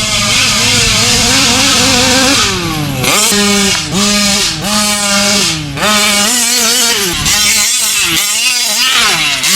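Gas engine of a custom large-scale RC car revving. It holds a steady high rev at first, drops about two seconds in, then is blipped up and down roughly once a second.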